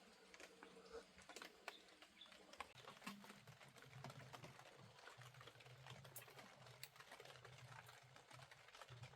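Faint, irregular light ticks and taps, with a faint low hum joining about three seconds in.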